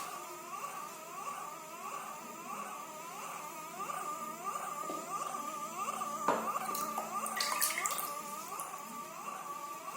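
Water tap making a strange sound: a steady high whine with repeated short rising squeaks, about two a second.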